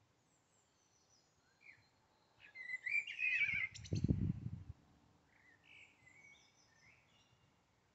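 Small birds chirping and calling, with a louder run of chirps about two and a half seconds in and fainter calls later. A brief low rumble comes about four seconds in.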